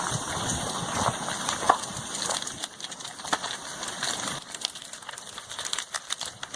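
Crackling and popping over a steady hiss, from lava engulfing and burning a house.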